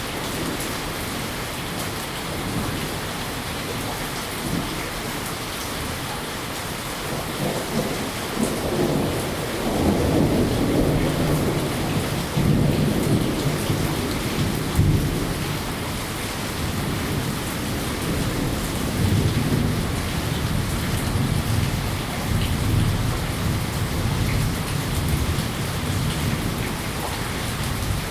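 Steady rain with a long, rolling low rumble of thunder that builds about eight seconds in, is loudest a few seconds later, and then rumbles on more softly.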